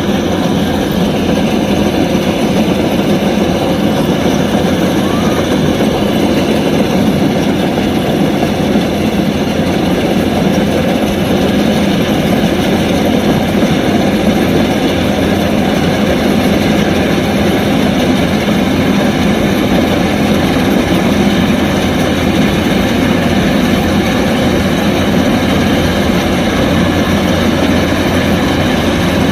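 Kubota DC-105X combine harvester running steadily, a constant loud mechanical drone of engine and machinery with no changes in pace.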